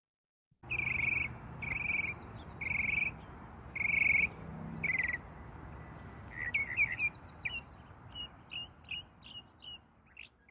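A bird calling: after a moment of silence, five short, raspy trilled calls about a second apart, then a run of quicker short chirps that fade toward the end, over a low steady background rumble.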